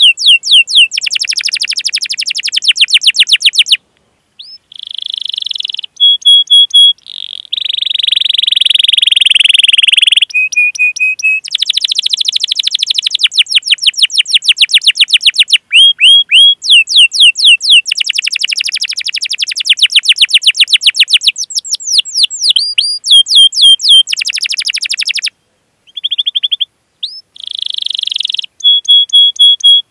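Domestic canary singing a long, loud song of fast trills and rapid repeated 'cuit cuit' chirps, each run switching to a new note every second or two, with a few brief pauses.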